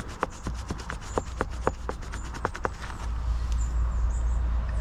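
Pen scratching on paper in a run of short strokes, several a second, as words are written by hand. About three seconds in the writing stops and a steady low rumble takes over.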